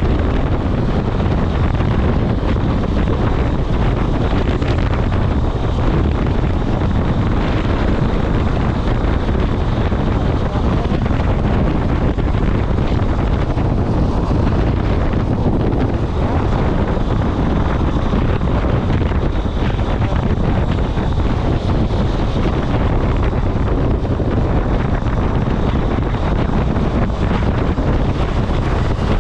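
Steady wind rumble buffeting the microphone, with no distinct events.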